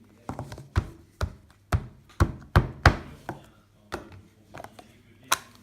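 Slime being kneaded and squeezed by hand, giving an irregular run of sharp pops and clicks, about eight loud ones with softer ones between.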